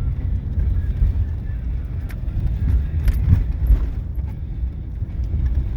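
A vehicle driving slowly over rough, muddy ground: a steady low rumble, with a few short knocks and rattles about two and three seconds in.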